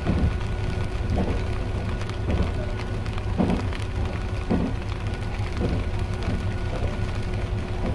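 IRT355 diesel railcar running at speed, heard from the cab: a steady low rumble with a faint steady whine, and a soft knock about once a second.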